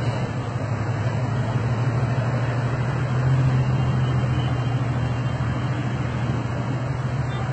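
Porsche Boxster's flat-six engine running at low revs as the car creeps forward, a steady deep hum that swells slightly about three seconds in.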